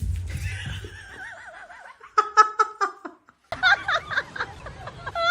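Laughing in a quick run of short, evenly spaced ha-ha pulses, about a second long, after a high wavering vocal sound. Choppy voice sounds follow near the end.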